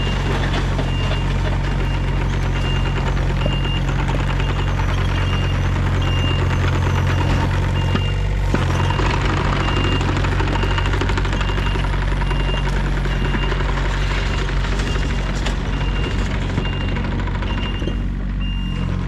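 John Deere 35D mini excavator's diesel engine running steadily while its high-pitched alarm beeps over and over, a little more than once a second.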